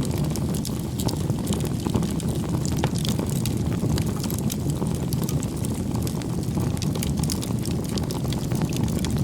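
Firewood bonfire burning: a steady low rush of flames with frequent sharp crackles and pops from the wood.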